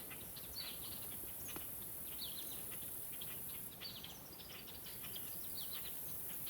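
Small birds chirping: many short, quick, high notes that drop in pitch, scattered throughout, over a steady high insect hiss.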